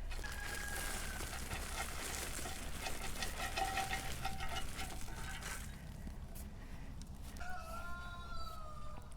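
A rooster crowing twice, once near the start and once about three-quarters of the way in, each call holding a slightly falling pitch, over a steady low hum.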